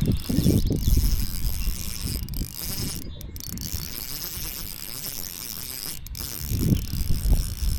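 Fishing reel being cranked, a mechanical ratcheting whir that comes and goes, over a steady high insect drone.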